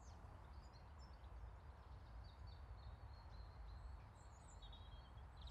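Faint birds chirping in short calls and trills, with a quick rattling trill near the end, over a low steady rumble.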